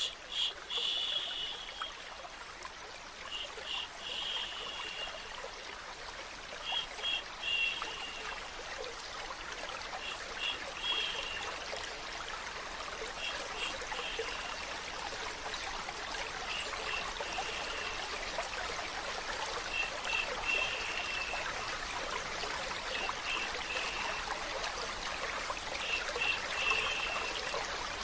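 Water trickling and running steadily like a small stream. A short, high chirping call, a few quick notes each time, repeats about every three seconds over it.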